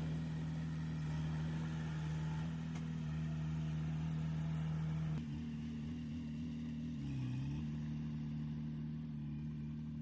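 Diesel engine of heavy earthmoving machinery running with a steady drone. About halfway through it drops a little in level and pitch, and a couple of seconds later the pitch dips briefly and recovers.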